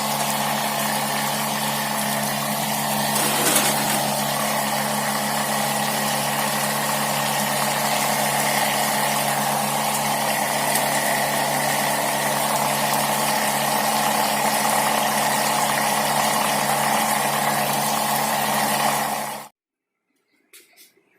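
Homemade water pump driven by a table-fan motor, running with a steady hum over a broad rushing noise. It cuts off abruptly about two seconds before the end, leaving a few faint clicks.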